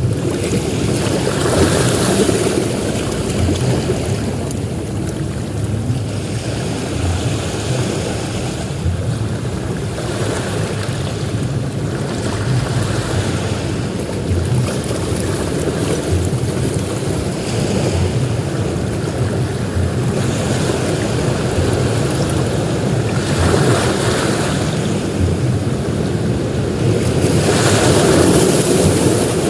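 Ocean surf on a beach, waves breaking and washing in, the noise swelling every few seconds with the loudest surge near the end. Wind rumbles on the microphone underneath.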